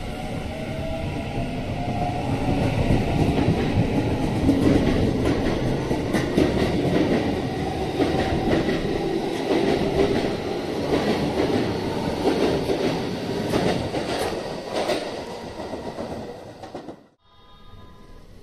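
Keikyu 1000 series electric train pulling out past the platform. Its inverter and motor whine rises in pitch over the first two seconds as it gathers speed, then gives way to running noise and repeated clicking of wheels over rail joints as the cars go by. The sound cuts off abruptly near the end, leaving a low steady hum.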